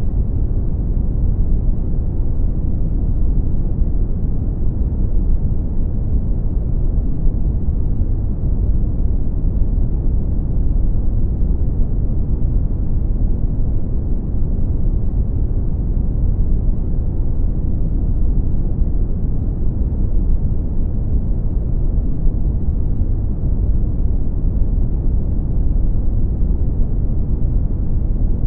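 Brown noise: a steady, deep, even rumbling hiss, heaviest in the bass and falling off toward the treble, with no changes.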